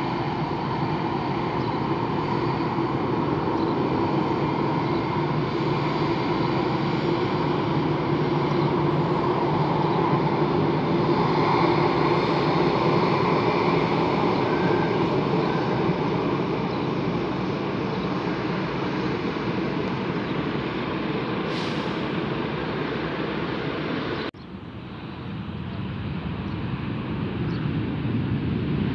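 Jet airliner engines running with a steady whine over a rushing noise, swelling to its loudest about halfway through. Near the end the sound drops away abruptly, then builds back up.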